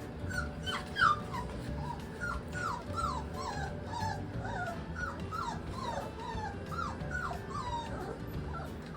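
A litter of young mastiff puppies whining: many short, high, falling whines, several a second and overlapping each other, over a low steady hum.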